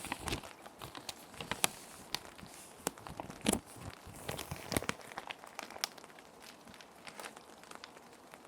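Plastic sheet protectors crinkling and crackling in irregular bursts as paper is slid into them and handled, with the crackles thinning out after about five seconds. A faint steady rain sound runs underneath.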